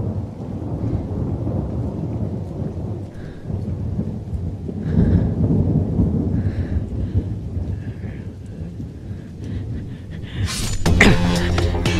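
Thunderstorm ambience: a low, rolling thunder rumble with rain, swelling about five seconds in. A burst of dramatic film music cuts in with a sudden hit near the end.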